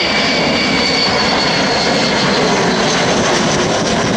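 Avro Vulcan's four Rolls-Royce Olympus 202 turbojets running loud and steady as the bomber passes. A high whine rides on top of the jet noise and fades away about halfway through.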